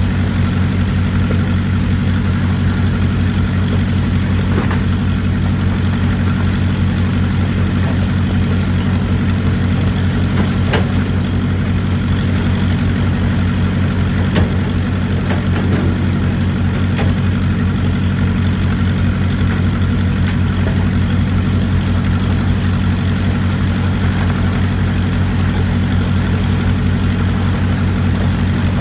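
Excavator diesel engine running at a steady low, even pitch, with a few faint knocks now and then, over a hiss of running water.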